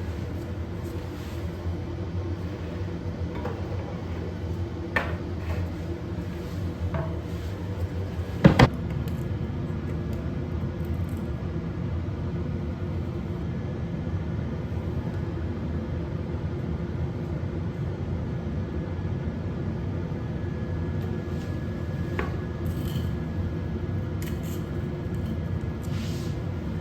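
A steady low machine hum, with a few light clicks and one sharp knock about eight and a half seconds in.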